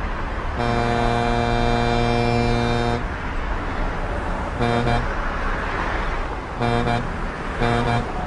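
Truck horn sounding one long blast of about two and a half seconds, then several short toots, over a steady road and engine rumble.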